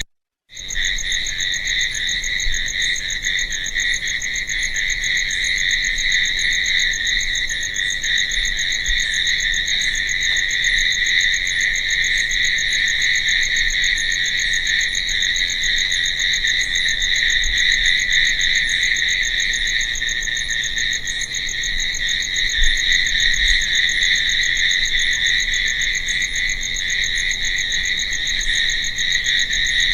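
Crickets chirping in a dense, steady night chorus, with a fainter higher chirp repeating about once a second. The sound cuts out completely for about half a second right at the start.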